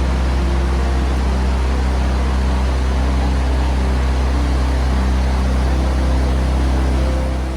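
Steady loud low rumble under an even hiss, with faint held tones above it; the level starts to drop near the end.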